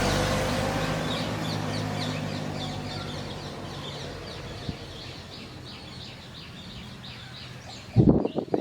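A bird giving a rapid, regular series of short chirps, about three a second, over the low hum of a passing motor vehicle that fades steadily away. Near the end, loud rumbling bursts start abruptly.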